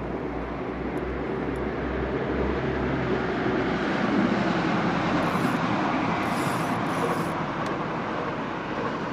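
A train passing across the river: a steady rushing noise that swells to its loudest about four seconds in, then eases off.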